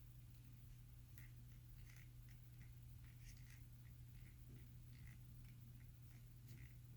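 Bose QC35 left earcup giving a faint run of short, irregular squeaks and clicks, about two or three a second, as it is pressed and handled. The earcup squeaks when touched since a repair, a fault that shows up as clicking when the wearer walks. A steady low hum sits underneath.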